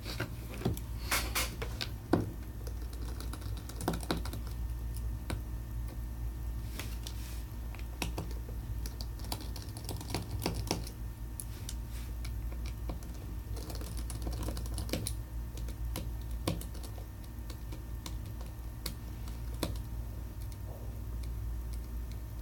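Light, irregular clicks and taps of small hand tools and tiny screws against a Samsung Galaxy S7 Edge during disassembly, over a steady low hum.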